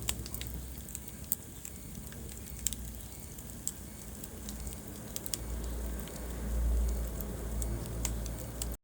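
Wood fire burning in a fireplace: irregular sharp crackles and pops over a low rumble of flame, the rumble swelling for a moment about six seconds in. The sound cuts out for an instant at the very end.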